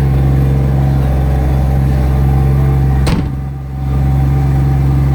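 Mazda Cosmo's rotary engine idling steadily shortly after a cold start, with no throttle. A sharp click about three seconds in, after which the sound briefly dips.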